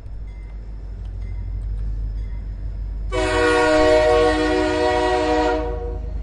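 Train horn sounding once for about two and a half seconds, a little past halfway in, over the steady low rumble of the train running.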